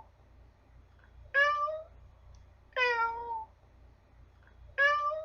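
Domestic cat meowing three times, each meow about half a second long and about a second and a half apart, the last one rising in pitch.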